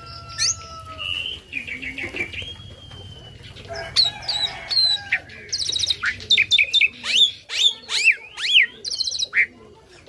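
Pet starling (jalak) singing a varied song of sharp whistles, rising and falling slides and rapid buzzy chattering notes, getting denser and louder about four seconds in.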